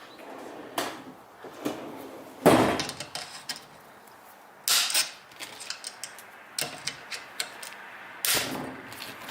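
A series of sharp knocks and clanks from parts and tools being handled. The loudest comes about two and a half seconds in, with two more near five and eight seconds, and lighter clicks between them.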